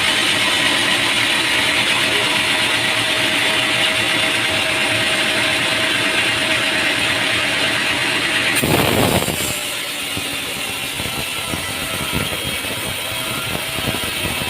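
Engine-driven machinery running steadily. About two-thirds of the way through it cuts abruptly to a quieter steady machine noise.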